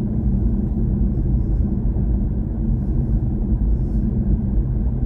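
Steady low road and tyre rumble of a BMW i4 M50 electric car driving along at a constant pace, with no engine note.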